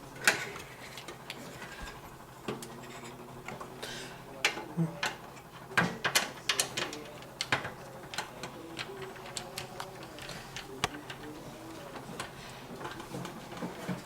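Irregular clicks and light metallic taps from hands working inside a computer case, fastening the graphics card's bracket and the expansion-slot covers with screws. There is one sharp click just after the start and a run of quick clicks in the middle.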